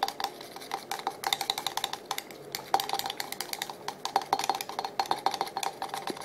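A meat-injector syringe stirring melted butter and Greek seasoning in a container, making rapid, irregular clicks and clinks against its sides.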